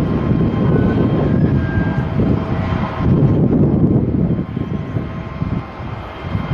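Jet airliner's engines running loud, a deep rumbling roar with a faint steady whine over it, easing off a little near the end.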